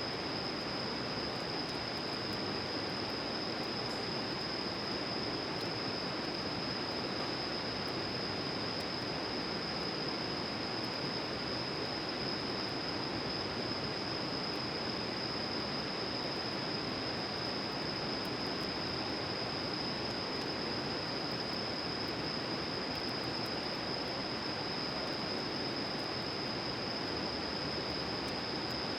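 Insects trilling in one steady, unbroken high note over a constant hiss, with a few faint ticks that fit a campfire's crackle.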